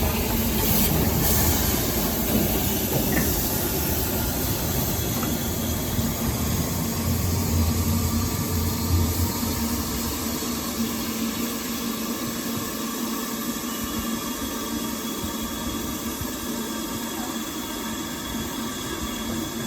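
Steam locomotive hissing steam, with the low rumble of the train dying away about halfway through.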